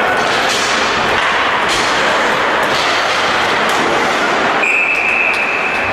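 Game noise in a sports hall: a steady wash of sound with several sharp knocks about a second apart, then a referee's whistle blowing one steady high note from about three-quarters of the way in.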